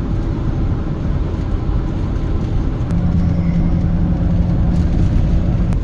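Campervan driving on the highway: a steady low rumble of engine and road noise, with a steady hum joining in about three seconds in.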